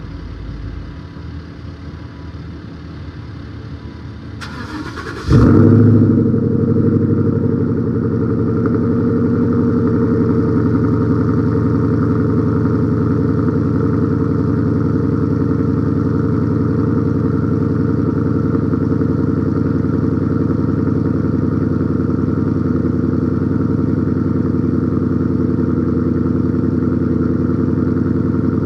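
Ford Mustang GT V8 cold start: the starter cranks briefly about four and a half seconds in, the engine catches with a loud flare, then settles after a couple of seconds into a steady cold fast idle.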